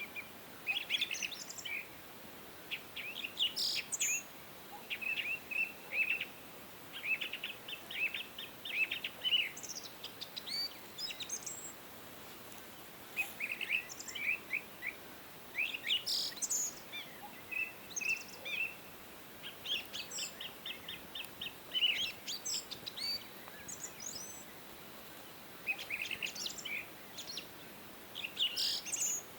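Songbirds chirping and singing in short bursts of quick notes and trills, several phrases overlapping, with brief lulls between bouts over a faint steady hiss of background noise.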